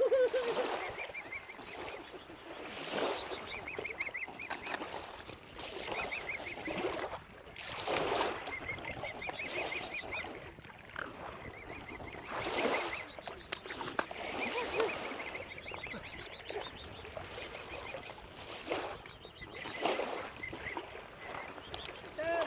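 Waterfowl calling over and over: loud honks every two or three seconds, with quicker, higher chattering calls in between.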